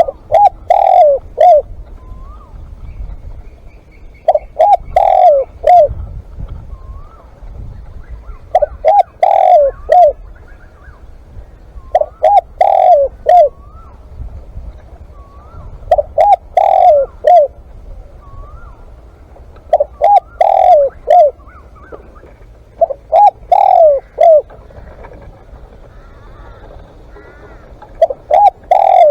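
Spotted dove cooing: a phrase of three or four coos repeated about every four seconds, with faint short chirps of smaller birds between the phrases.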